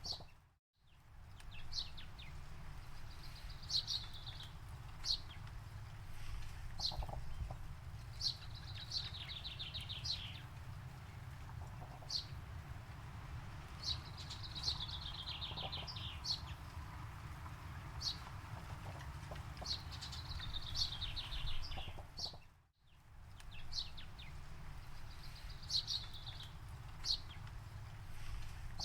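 Forest birds singing: short high chirps and rapid trilled phrases repeating every second or two over a steady low rumble. The sound drops out briefly twice, just after the start and about 23 seconds in.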